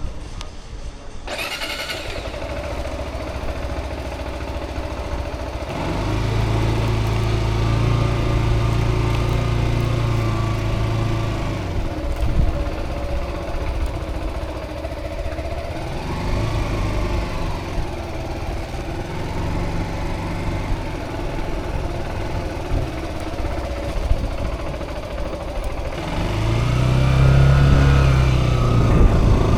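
Zontes cruiser motorcycle engine running, growing louder about six seconds in. Its revs rise and fall briefly around the middle, then climb again near the end as it pulls away.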